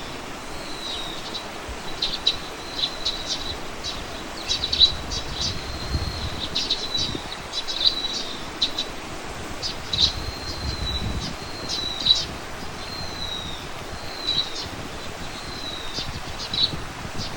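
Small birds chirping and calling outdoors: repeated short high chirps and brief sliding whistles, coming every second or so.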